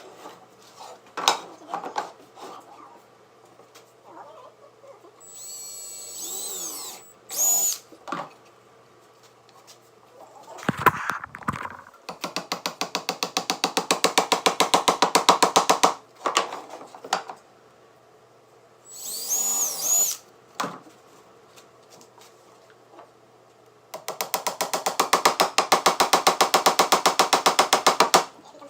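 Handheld power drill running in two bursts of about four seconds, each a fast, even pulsing that grows louder, with knocks and handling noises in between.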